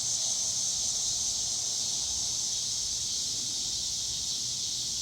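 A steady, high-pitched chorus of insects, such as crickets, chirring without a break.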